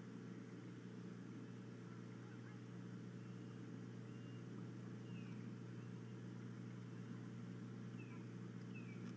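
Four faint, short, downward-slurred bird chirps, starting about four seconds in, over a steady low hum.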